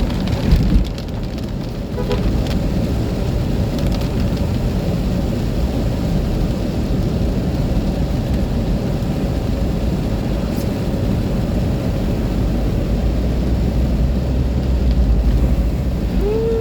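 Car driving in heavy rain: a steady rumble of road and rain noise with low engine drone, and one short thump about half a second in.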